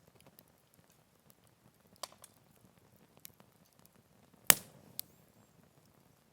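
Wood fire crackling in a Picogrill fire pit: scattered faint ticks and pops, with one sharp loud pop about four and a half seconds in and a smaller one just after.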